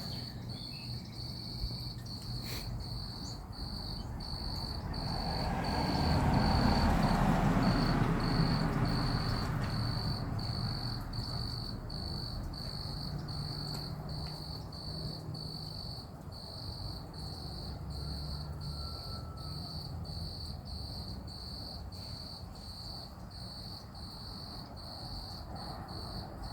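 A high, pulsing insect chorus chirps steadily, with a rushing swell that rises about five seconds in, peaks, and fades away over several seconds.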